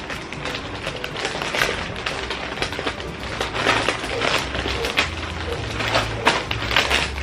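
Crisp chip snacks and their packaging crackling and crunching as they are handled: rapid, irregular crackles.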